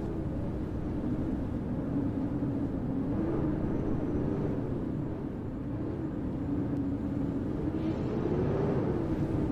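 Winter city street ambience in a snowstorm: a steady low rumble of wind and distant traffic, with a low hum that wavers slowly up and down in pitch.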